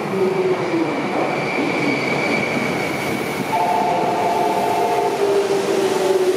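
Electric commuter train running into a station platform: a steady rumble of the cars with faint squealing tones, and a higher squeal about three and a half seconds in that lasts over a second.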